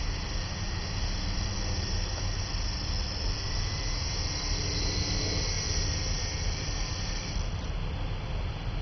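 Small coaxial electric RC helicopter (Blade CX2) in flight, its motors and rotors giving a faint steady whine under heavy wind rumble on the microphone. A high hiss fades near the end.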